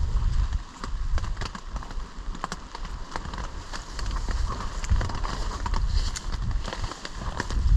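Strong, gusty wind buffeting the microphone in a low, uneven rumble that dips about a second in and again near the end. Many scattered sharp ticks and taps sound over it.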